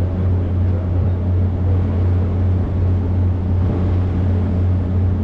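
Boat engine running steadily at the dock, a constant low drone.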